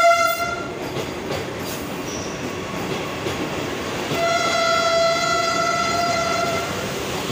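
Vande Bharat Express electric trainset pulling out past the platform, its wheels and running gear making a steady rumble. Over the rumble, a single-pitched horn blast stops about half a second in, and a second horn blast of about two seconds sounds in the middle.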